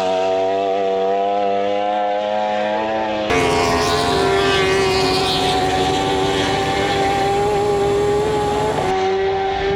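World Superbike racing motorcycle engines running hard at high revs with a near-steady pitch, the sound changing abruptly about three seconds in and again near the end as it cuts between shots.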